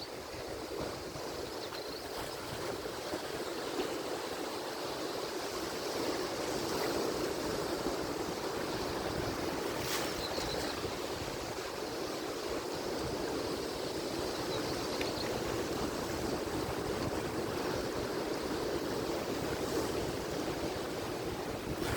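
Atlantic Ocean surf washing continuously, a steady rushing wash that swells and eases gently as waves break.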